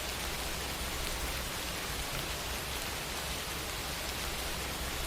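Steady, even background hiss with a low hum underneath, unchanging throughout.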